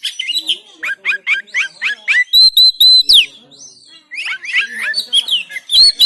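Oriental magpie-robin (kacer) singing loudly: quick runs of downward-sliding whistled notes, then a phrase of repeated clear whistles. A brief pause about halfway through is followed by more varied notes.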